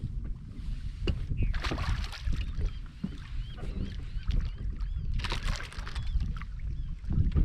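Wind buffeting the microphone and water slapping against a small boat's hull, a constant uneven low rumble with bursts of splashy hiss. Faint short high-pitched calls repeat now and then between about one and five seconds in.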